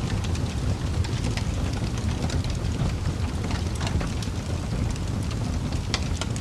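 Wood fire crackling in a fireplace: a steady low rumble of burning logs with irregular sharp pops and snaps, a couple of louder ones about four and six seconds in.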